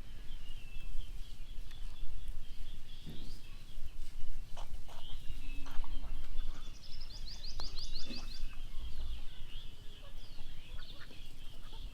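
Birds chirping steadily in the background, with a quick rattling call about seven seconds in, over a low rumble and a few short knocks.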